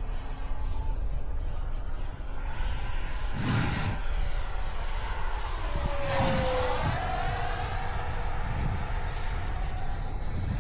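Radio-controlled electric ducted-fan jet flying, its fan making a steady whine; about six seconds in it passes close and the whine slides down in pitch as it goes by. A brief rush of noise comes about three and a half seconds in.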